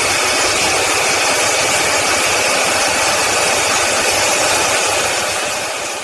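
A household electric appliance running steadily with a loud rushing, motor-driven noise, fading out near the end.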